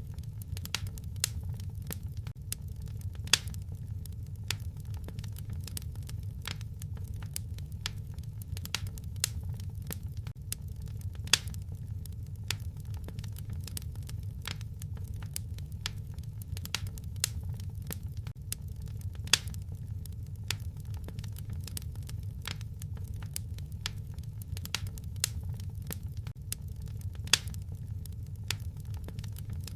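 Wood fire crackling in a fireplace: dense, irregular small snaps, with a louder pop about every eight seconds, over a steady low rumble.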